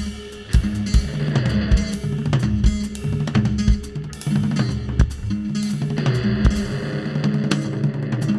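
Rock band playing an instrumental passage: a drum kit with kick and snare keeping a steady beat under a walking upright-bass line and guitars.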